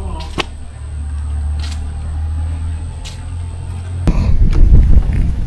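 A steady low hum with a few light clicks. About four seconds in it gives way abruptly to a louder, rougher low rumble.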